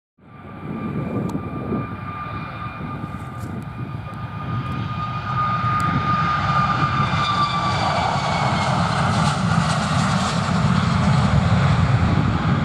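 Aircraft engines running, a steady rumble with a high whine that sags slightly in pitch, growing louder about five seconds in, with wind rumble on the microphone.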